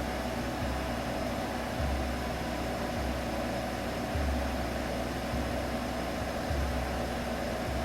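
Baby sleep-aid sound: a steady, even hiss over a low hum that swells and falls back about once a second.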